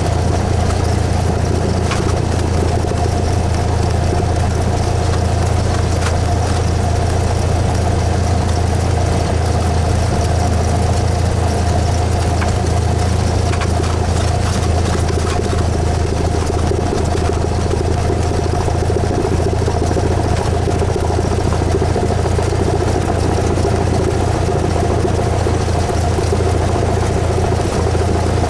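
Cessna 172S's four-cylinder Lycoming engine running steadily at an even speed, with a strong low hum and no change in power.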